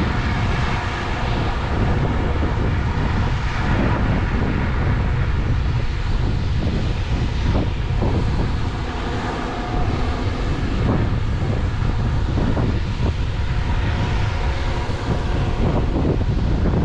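Large farm machine's diesel engine running steadily under load, with wind buffeting the microphone and a few short knocks scattered through.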